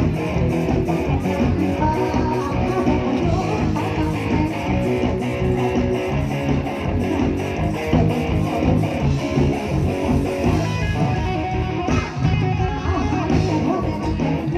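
Live band playing an instrumental passage, guitars and bass over a steady drum beat, with no singing.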